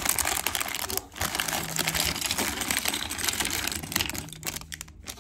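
Plastic bags of LEGO pieces being handled: the bags crinkle and the small plastic bricks inside click and rattle in a dense, continuous patter, easing off briefly about a second in and again near the end.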